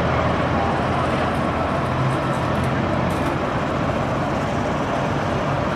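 Peterbilt semi truck's diesel engine running with a steady low drone as the truck rolls by at low speed.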